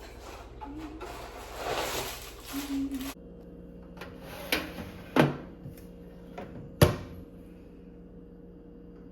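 Kitchen handling noises: a rustling for the first three seconds, then a few separate knocks and clacks like a cupboard or drawer and utensils being set down, the sharpest nearly seven seconds in.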